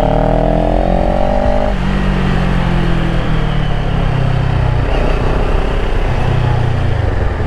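CF Moto 700 CL-X Heritage's parallel-twin engine pulling hard, its pitch rising, then dropping about two seconds in and running lower, easing off slowly. Wind rushes over the microphone throughout.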